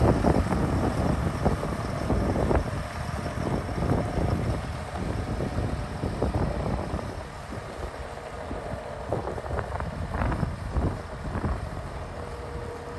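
Diesel engine of a Fendt 828 Vario tractor running with a low rumble, under gusty wind buffeting the microphone.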